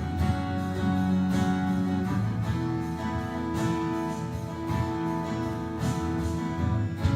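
Instrumental worship music: a strummed acoustic guitar with long held chords that change every second or two.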